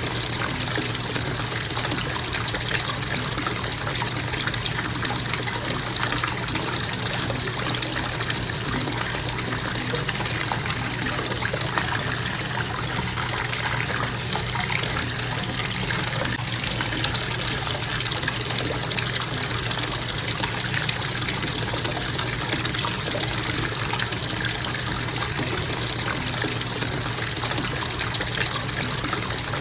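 Bathtub faucet running steadily, water splashing into the tub.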